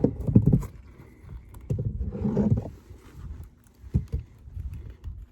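Wooden beehive frames being handled and set into the hive box: irregular low knocks and bumps, with a rustling scrape about two seconds in.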